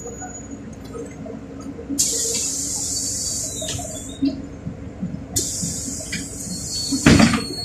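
Compressed-air hisses from a LiAZ 4292 city bus's pneumatic system: two sudden releases a few seconds apart, each fading away, over the steady low hum of the bus, with a loud thump about seven seconds in.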